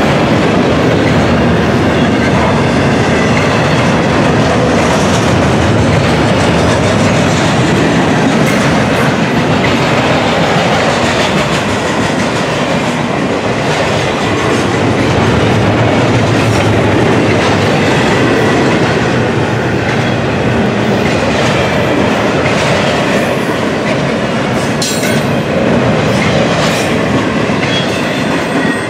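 Double-stack intermodal container cars of a freight train rolling past at speed: a loud, steady rumble of steel wheels on rail with a clickety-clack of wheels over rail joints, and sharper clacks standing out near the end.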